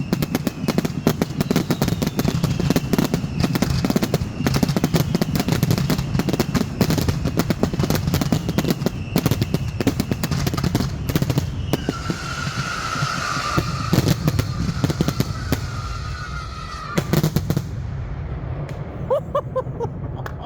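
Fireworks going off in a rapid, dense barrage of bangs and crackles, with whistling shells. A loud whistle sounds for about five seconds from about twelve seconds in. The barrage dies away near the end.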